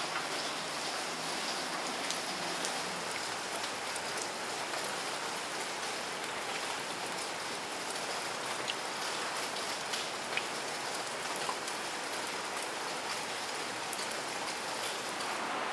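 Steady rain falling on wet, stony ground and shallow puddles, with now and then a sharper click of a single drop.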